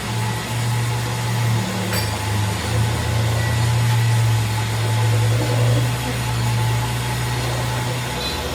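A steady low mechanical hum from running workshop machinery, with a faint click about two seconds in.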